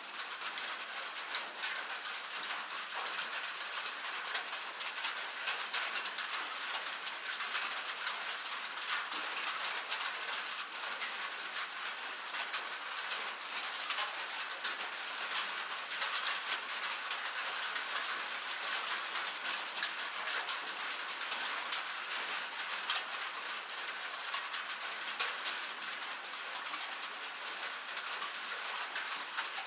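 Rain on a metal roof: a steady hiss of rainfall thick with the quick ticks of individual drops striking the sheet metal.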